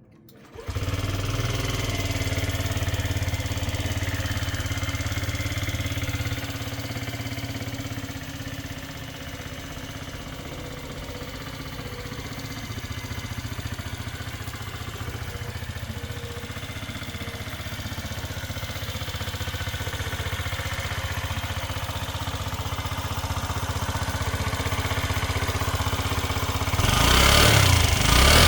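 Honda Zoomer AF58 scooter's 49 cc four-stroke single-cylinder engine starting under a second in, running a fast idle that drops to a lower, steady idle about six seconds in, then revved in short blips near the end.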